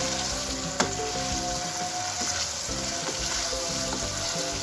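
Chicken masala sizzling as it fries in a wok on high flame while being stirred with a wooden spatula, with one sharp knock about a second in. Background music plays over it.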